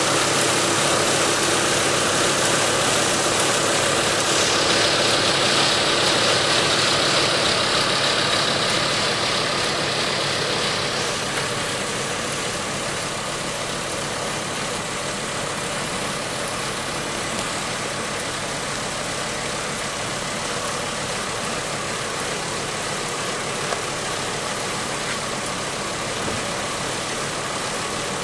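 Volkswagen Passat V5's VR5 five-cylinder engine idling steadily, with a brighter, hissier edge for several seconds before settling a little quieter.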